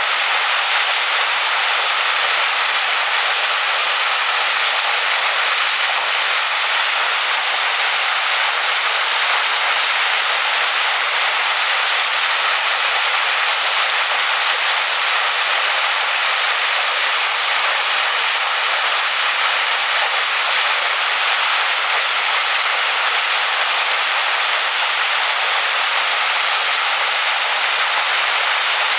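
Waterfall splashing onto rocks: a steady, unbroken rush of falling water, bright and hissy with little low rumble.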